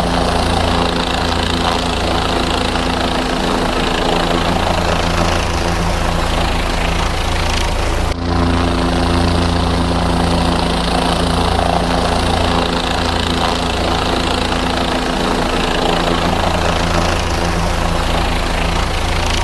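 Helicopter running steadily: its engine and rotor give a constant hum with a noisy whir above it. The sound breaks off for an instant about eight seconds in, then carries on unchanged.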